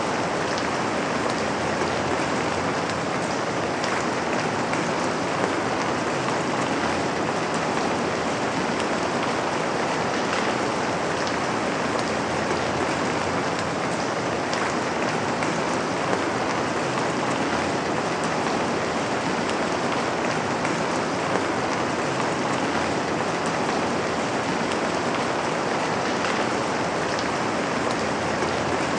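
Steady rain falling on a window, an even hiss with scattered small ticks of single drops striking the glass.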